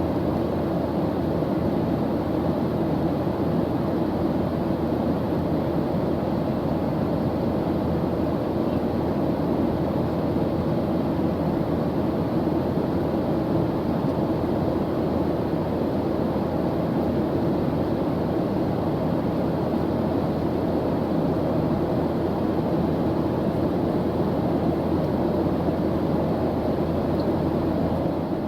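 Airplane engine noise: an even, unbroken drone, heaviest in the low range, that holds steady without change.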